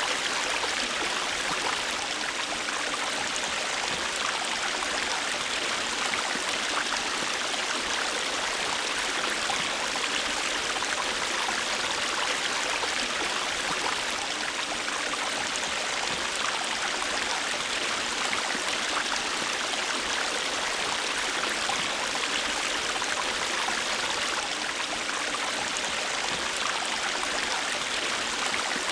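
A river or stream flowing, a steady rushing of water over stones with fine splashing, even in level throughout.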